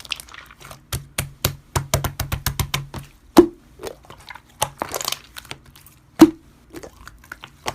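Crunchy slime being squeezed and pressed in the hands: a quick run of crackles and clicks, with two louder pops about three and six seconds in.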